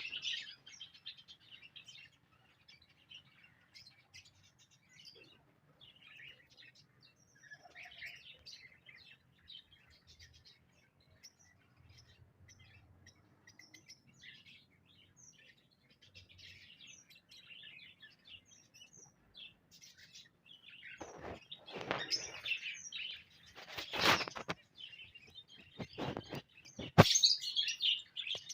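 Small cage birds chirping in short, scattered high calls that thicken into denser chirping near the end. A few louder sudden knocks or rustles come through in the last third.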